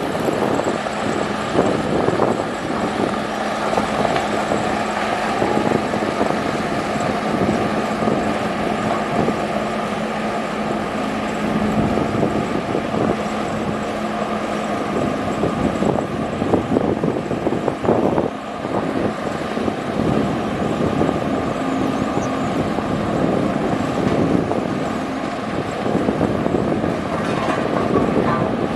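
Heavy construction machinery running steadily at a work site: a diesel engine's drone with a steady hum, and a few clanks and knocks now and then.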